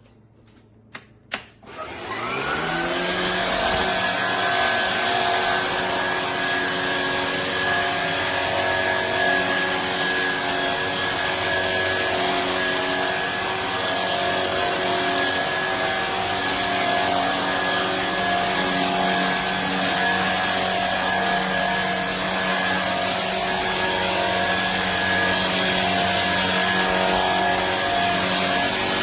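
Shark IZ363HT cordless stick vacuum switched on: two clicks, then its motor spins up with a rising whine and runs steadily at full speed.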